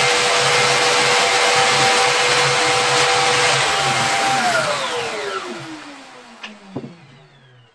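Electric power tool motor running at steady speed, then switched off about four seconds in and spinning down, its whine falling in pitch as it fades out. Two short clicks come near the end.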